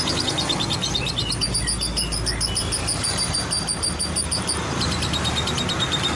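Lovebird chirping in long, rapid, high trills, with a pause about a second in and a long run near the middle, over a steady low rumble.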